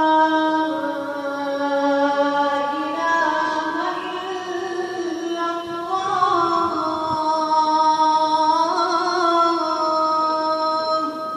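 A young boy's voice reciting the Quran in melodic tajweed style, holding long drawn-out notes that slowly rise and fall in pitch. The phrase dies away near the end.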